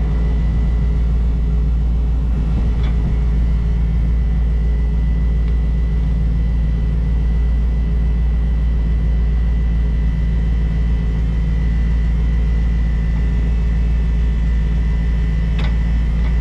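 Truck engine running steadily: an even low rumble with a faint steady high tone above it.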